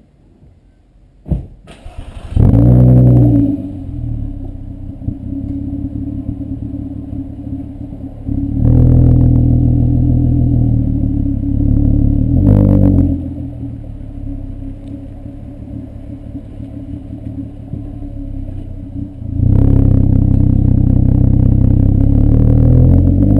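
VW Bora 2.8 VR6 24V engine (stock AQP) with a straight-through Milltek non-resonated exhaust, starting: a click, then the engine catches with a loud flare that falls back to idle. Two throttle blips follow, and from about twenty seconds in the engine runs steadily louder at higher revs.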